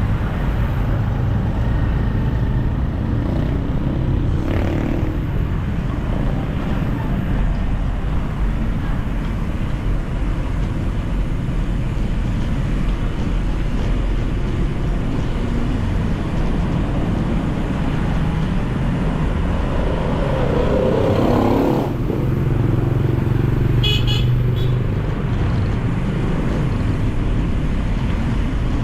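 City road traffic heard from a bicycle: car and motorcycle engines running and passing steadily, with one vehicle passing louder a little past two-thirds of the way through and a short high-pitched beeping soon after.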